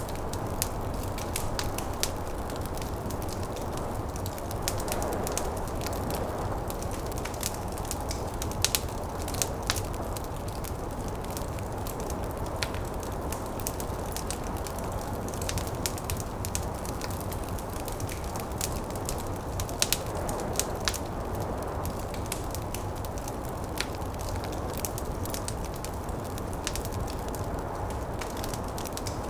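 Wood fire crackling with frequent irregular sharp pops, over a steady low rush of snowstorm wind.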